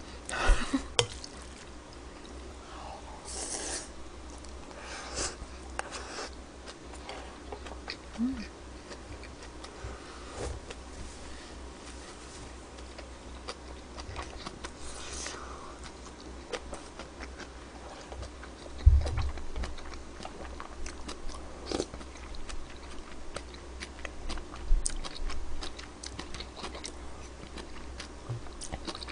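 A person chewing and biting mouthfuls of rice and pork belly close to a microphone, with short clicks of chopsticks and a spoon against the bowls. A dull thump about two-thirds of the way through.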